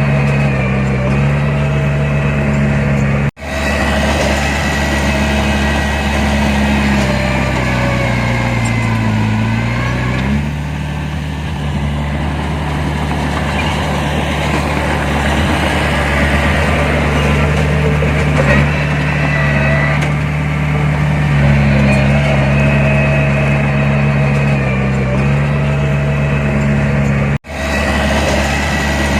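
Heavy diesel engine of earth-moving machinery running, its pitch sagging and then recovering about a third of the way in. The sound cuts out abruptly for a moment twice.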